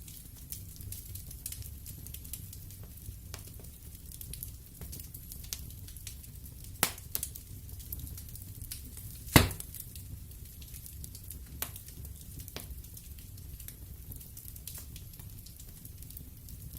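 Wood fire burning in a fireplace: scattered crackles of burning logs over a low rumble of the flames, with a few sharper pops, the loudest about nine seconds in.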